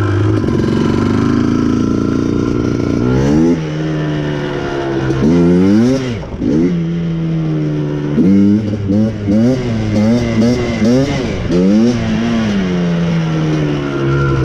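Yamaha Blaster quad's two-stroke single-cylinder engine with a Pro Circuit exhaust, running steadily for about three seconds, then revving up and dropping back over and over as the throttle is blipped while riding.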